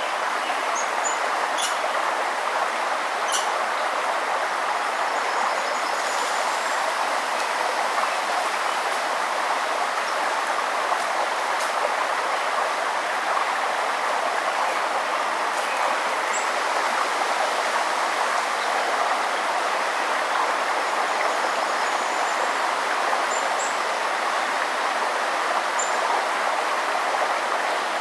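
Forest river water running with a steady, even rush. A few brief, faint high bird chirps come through now and then, several in the first few seconds and more toward the end.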